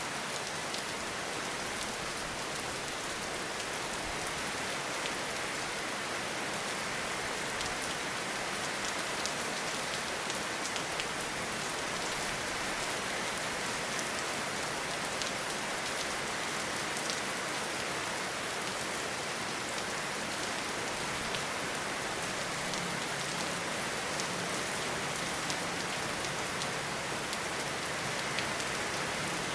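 Steady rain falling: an even hiss with many separate drops ticking through it, holding the same level throughout.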